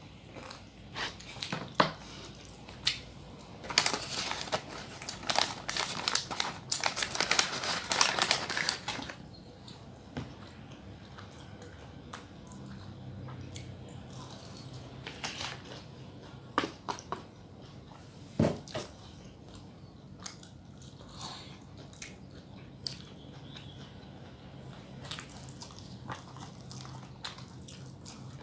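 Mukbang eating sounds close to the microphone: biting, crunching and chewing food, with a dense crunchy stretch about four to nine seconds in, then sparser clicks and chews.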